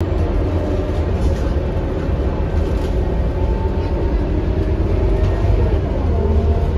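Scania K230UB city bus's five-cylinder diesel engine running under way, a steady low drone, with its pitch shifting near the end.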